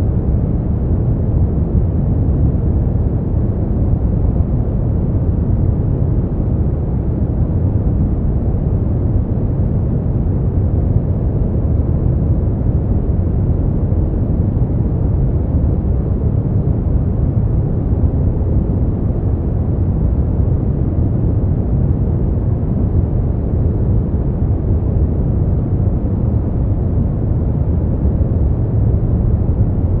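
Brown noise: a steady, unchanging low rumbling hiss with its weight in the bass and little treble.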